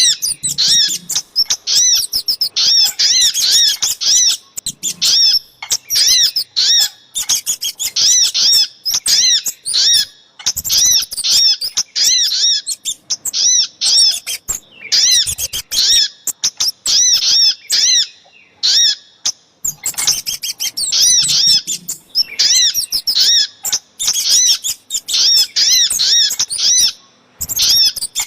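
Bird-lure recording mixing the calls of the sogok ontong (little spiderhunter) and the kemade: loud phrases of rapid, high, arched chirps, each a second or two long, repeated with brief breaks.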